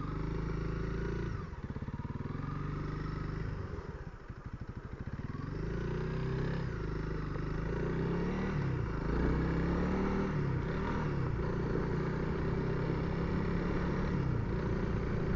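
Honda CRF300L's single-cylinder engine running under way, its pitch climbing and dropping several times as the rider accelerates and shifts gear, then holding fairly steady, picked up by the helmet's Sena intercom microphone.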